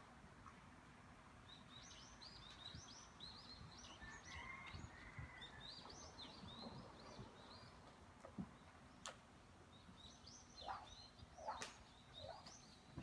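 Faint chirping of small birds: many short high notes repeating through most of the stretch, with a few soft low thuds and sharp clicks.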